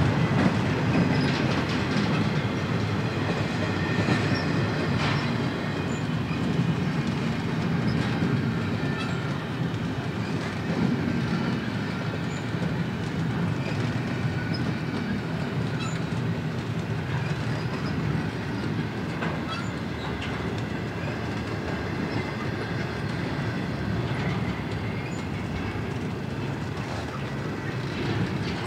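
Empty intermodal well cars of a BNSF freight train rolling past: a steady noise of steel wheels on rail with scattered clacks, slowly easing off.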